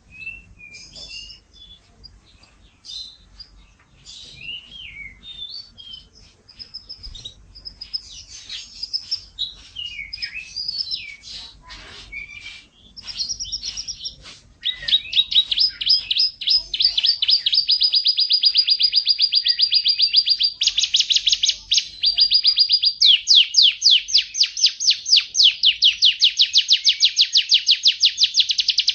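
A songbird singing: varied short chirps and whistles at first, then about halfway it breaks into a much louder, rapid trill of quickly repeated notes.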